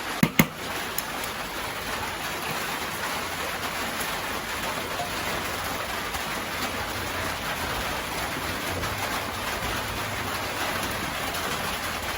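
Rain falling steadily, an even hiss throughout. Two sharp knocks come close together about a quarter to half a second in.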